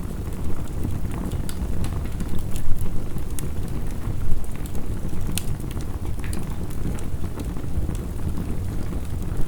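Wood fire crackling, with scattered sharp pops, over a steady low rush of heavy rain.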